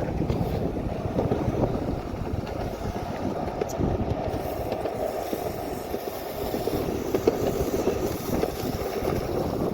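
Longboard wheels rolling over wet asphalt: a steady, grainy rumble.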